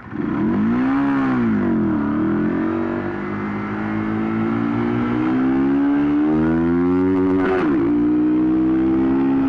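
Motorcycle engine revving under the rider's throttle. The pitch rises and falls once, then climbs steadily as the bike accelerates, with a brief jump about three-quarters through before it holds steady.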